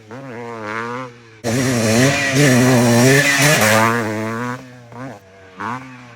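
Motocross bike engine revving, its pitch rising and falling as the throttle is worked. It dips briefly about a second in, comes back loud, and fades near the end.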